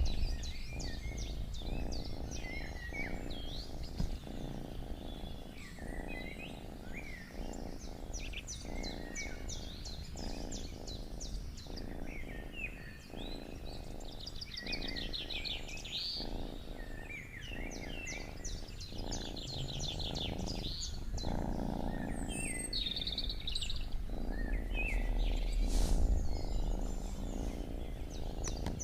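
A cat purring, pulsing evenly with each breath in and out, under several songbirds singing rapid chirps and trills.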